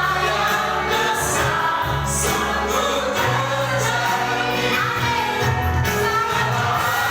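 Church worship music: voices singing together over a band, with held low bass notes that change every second or so.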